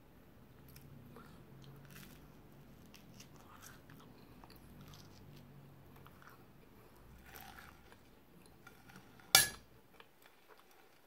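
Close-up chewing and crunching of toast wiped in egg yolk, with a single sharp knock about nine seconds in.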